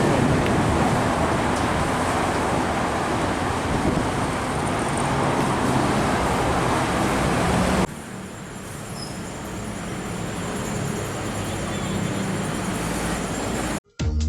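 Road traffic noise from passing vehicles. The steady noise of traffic drops suddenly about eight seconds in to a quieter passage that slowly grows louder.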